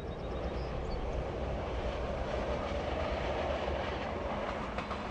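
OC Transpo O-Train, a diesel light-rail railcar, running along the track with a steady rumble and a faint hum that rises slightly midway.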